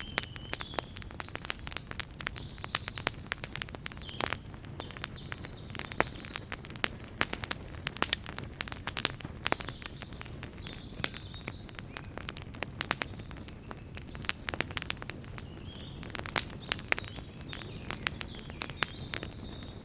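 Wood bonfire crackling, with many irregular sharp pops and snaps over a steady low rush of flame. Faint short high chirps come and go in the background.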